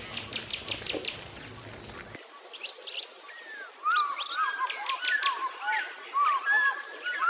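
Small birds calling and chirping, a busy run of short whistled notes starting about halfway through, over a faint steady high-pitched buzz.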